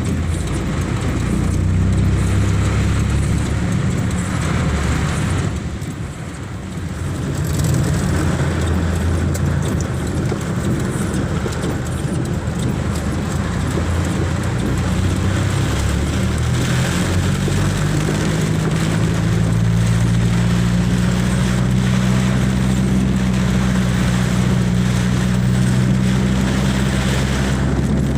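Motor vehicle engine running steadily with a low hum. The hum steps up in pitch and grows a little louder a bit past halfway.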